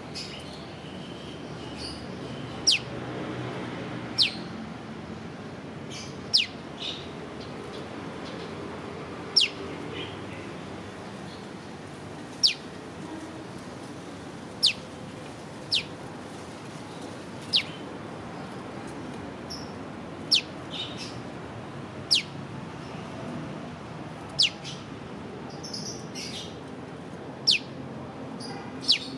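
A prenjak lumut songbird calling 'piw', a single sharp whistled note that drops quickly in pitch, repeated about a dozen times at uneven gaps of one and a half to three seconds, with fainter chirps in between.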